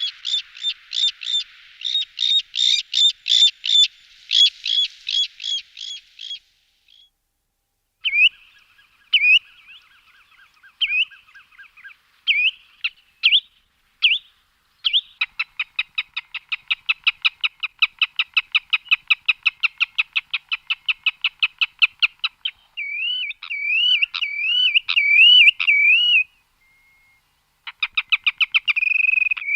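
Watercock calls: runs of rapid repeated high notes, a pause, a long fast pulsing series, then looping warbled notes repeated over and over.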